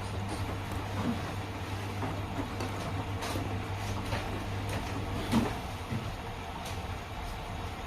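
Washing machines running a 40 °C delicates wash: a steady low hum from the running machines with scattered clunks and clicks as the drum turns, the loudest knock about five seconds in.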